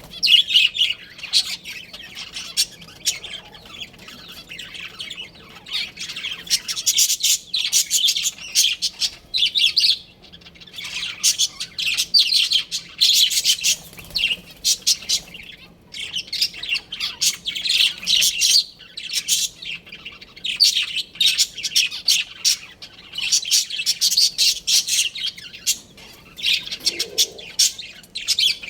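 Budgerigars chirping and chattering: runs of quick, high chirps and squawks in bursts, broken by short pauses.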